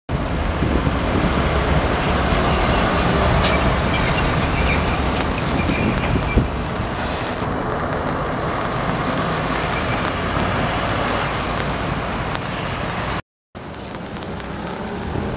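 Hanshin 5500 series two-car electric train running past on elevated track: a steady rumble of wheels on rail, with a sharp click about three and a half seconds in and a faint high squeal a little after. The sound drops out briefly near the end.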